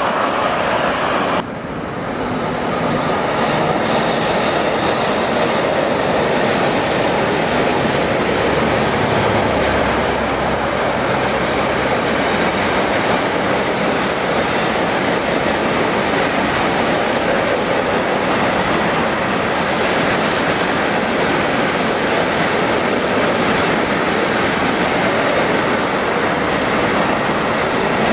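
Container freight train behind a Siemens Eurosprinter class 189 electric locomotive rolling past: a steady rumble of wagon wheels clattering over the rails. A thin high wheel squeal runs for several seconds shortly after the start.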